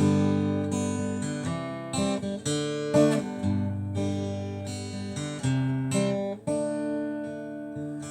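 Acoustic guitar strumming chords in an instrumental break of a song, a chord about every half second to a second, each left to ring and fade.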